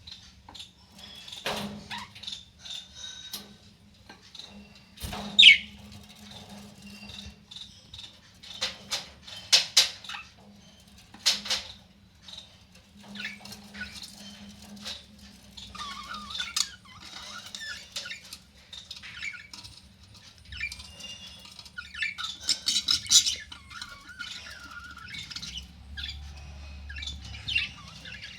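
Budgerigars chirping and squawking in short, irregular calls, mixed with sharp ticks, over a faint steady low hum.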